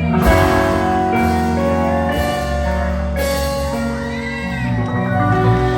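Live rock band playing loudly, with sustained notes, some bending in pitch, over regular full-band hits about once a second.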